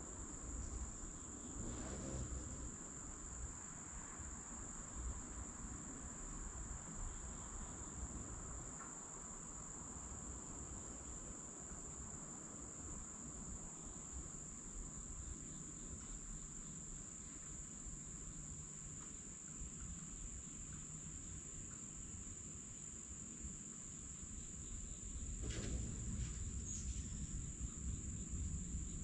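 Steady insect chorus in a summer garden, one unbroken shrill high tone, over a low rumble, with a soft bump about two seconds in and another near the end.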